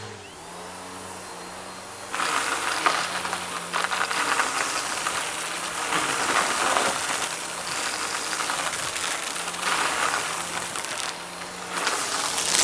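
Vacuum cleaner running with its brushroll picking up a crunchy debris mix. From about two seconds in, dense crackling and crunching comes in waves as it passes back and forth over the mess.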